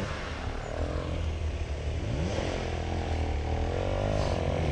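Engine running on an off-road trail, its revs rising and falling over a steady low drone.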